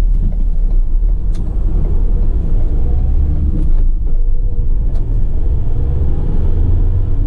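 Ford Transit tipper's diesel engine and road rumble heard from inside the cab as it pulls away and accelerates, the engine note rising a couple of times. A few faint clicks sound over the rumble.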